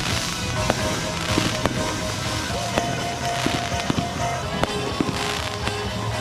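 Fireworks going off in quick succession: many sharp pops and bangs, with several bursts of hissing crackle. Music plays steadily underneath.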